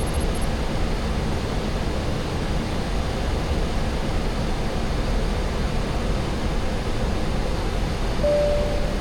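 Steady rushing noise inside the flight deck of a Boeing 737-800 in flight, airflow and engine noise with no breaks. Near the end a short, steady single tone sounds.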